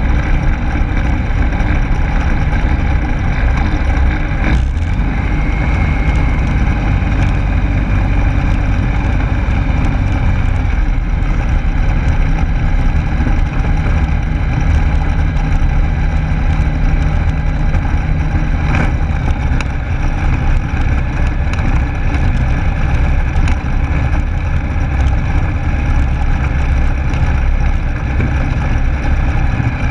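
Steady cockpit noise of a Rans Coyote S6 ultralight: its Rotax 912S four-cylinder engine running, mixed with wind rush on the microphone. There is a brief click about four and a half seconds in.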